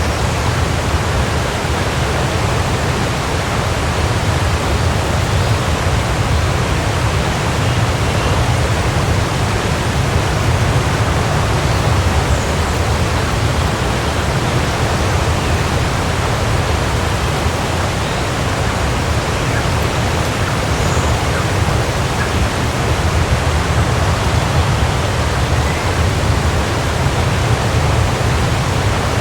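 Waterfall: a steady, even rush of falling water, heaviest in the low rumble.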